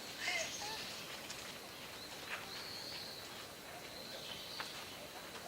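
Quiet outdoor background: faint, distant voices in the first second, then a faint thin high tone held for a couple of seconds, with a few faint ticks.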